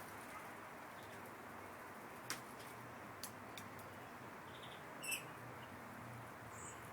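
Small garden birds, finches and tits, at a feeding spot: a few sharp clicks, a short high chirp with a click about five seconds in, and two brief high calls near the end, all faint over a steady background hiss.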